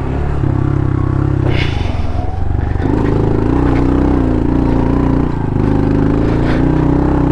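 Honda CRF110 pit bike's small single-cylinder four-stroke engine running under load on a rocky climb, dropping off briefly about two seconds in and then pulling again with its pitch rising and falling. A sharp knock sounds just before the drop.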